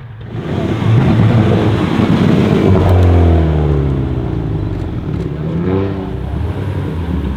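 Hyundai i30 N's turbocharged 2.0-litre four-cylinder accelerating hard. The engine note starts abruptly about half a second in, climbs, drops away near the middle and climbs again near the end.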